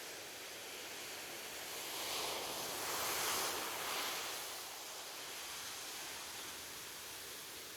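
Ocean surf: a steady wash of waves, with one wave breaking and rushing in louder about two seconds in before easing back.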